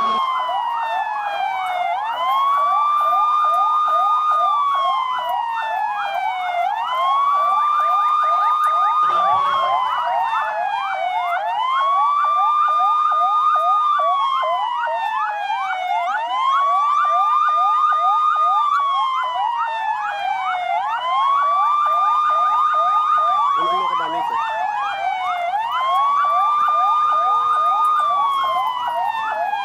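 Electronic emergency siren wailing: the tone climbs quickly, holds high for a moment, then slides slowly back down, repeating about every four seconds, with a faster rapid warble running underneath.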